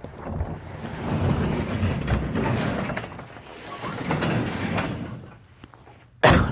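A door sliding open with a rumbling scrape in two long pushes, then a sharp, loud bang near the end.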